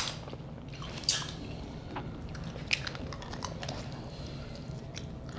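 Close-up eating sounds: chewing and wet mouth noises from seafood-boil food, with a few sharp clicks scattered through.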